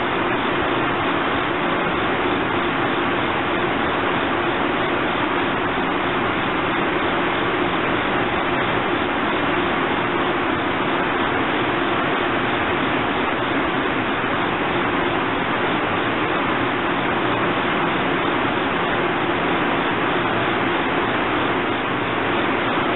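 Steady hum and hiss of an electric-hauled passenger train standing at a station platform, its equipment running, with no change in level.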